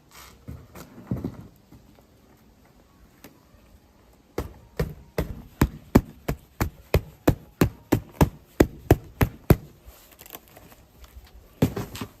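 Some rustling, then a steady run of sharp, even knocks, about three a second for some five seconds.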